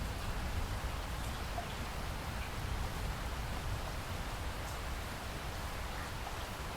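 Steady rain: a dense, even hiss with a low rumble underneath and a few faint drop ticks.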